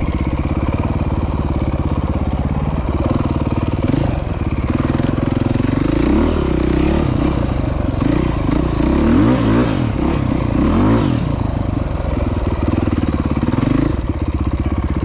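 Dirt bike engine running steadily. From about three seconds in, a second engine revs up and down over it, settling back near the end.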